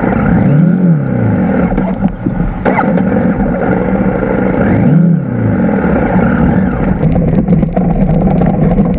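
Adventure motorcycle engine running close by, revved up and back down twice as the bike is worked over rough ground, with scattered clicks and clatter.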